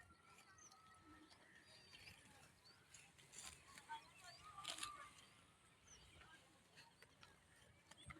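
Faint outdoor ambience with scattered bird chirps and a few soft clicks, with a brief louder rustle about halfway through.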